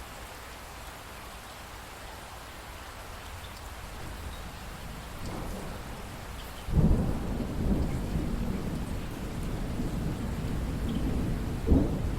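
Steady rain, with a roll of thunder breaking in sharply a little past halfway and rumbling on, and a sharper clap near the end.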